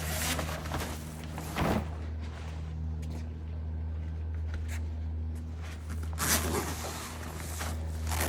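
Heavy fabric truck cover and apron being handled: a few short rustling scrapes, one near the start, one about two seconds in and a louder one about six seconds in, over a steady low hum.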